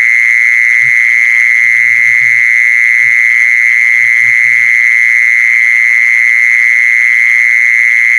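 Continuous high-pitched buzzing call of the female kmol, a lure call held at one steady pitch without a break.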